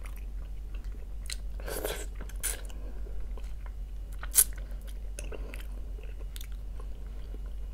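Close-up mouth sounds of a person eating boiled fish-head meat: chewing and smacking with scattered small clicks and one sharp click about four seconds in, over a low steady hum.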